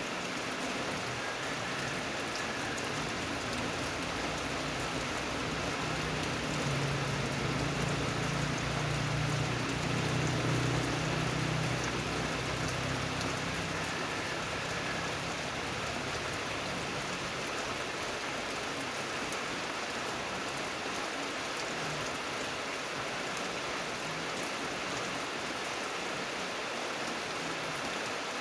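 Steady rain falling, an even hiss of many drops, with a low rumble that swells for several seconds about a quarter of the way in and fades again.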